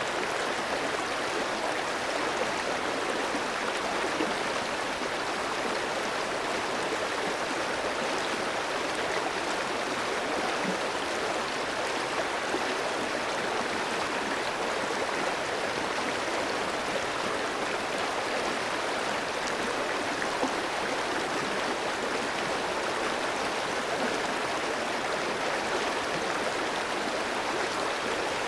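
Clear stream flowing over rocks: a steady, even rush of water with a light babbling.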